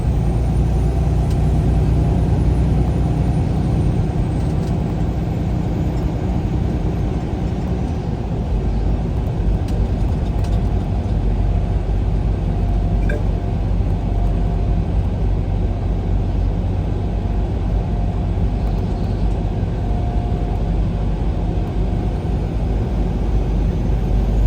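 Steady low rumble of engine and road noise inside a vehicle driving along at speed.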